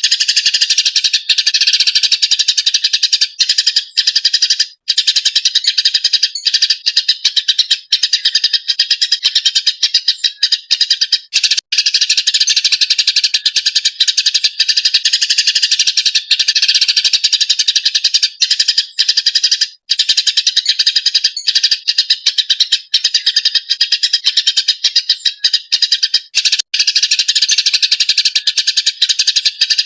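Eurasian tree sparrow chirping in an agitated, dense, rapid chatter with only brief breaks.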